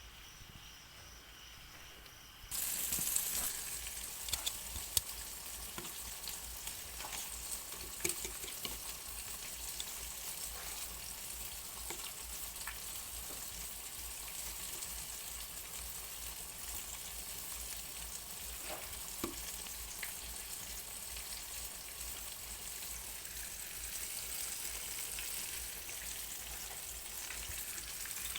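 Skin-on pork chops frying in hot oil in a pan. The steady sizzle starts suddenly about two and a half seconds in and carries on evenly, with a few light clicks and knocks of utensils.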